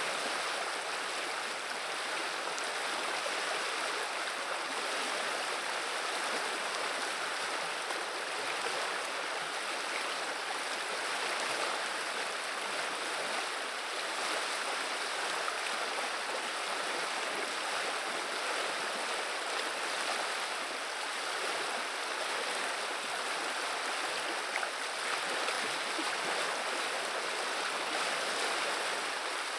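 River water running and babbling steadily, an even rushing noise with no breaks.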